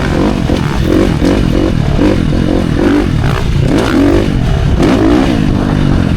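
Dirt bike engine being ridden hard, its pitch rising and falling over and over as the throttle is worked on and off.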